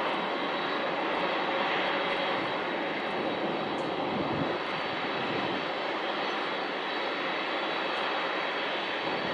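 Boeing 747-400D's four jet engines at takeoff power, a loud steady rushing roar with a faint high whine. The sound swells just before this point and then holds level.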